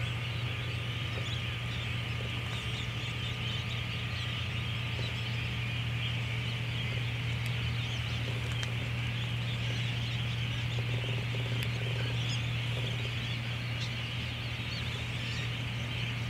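Steady mudflat ambience: a dense, unbroken chatter of many distant waterbird calls over a constant low hum.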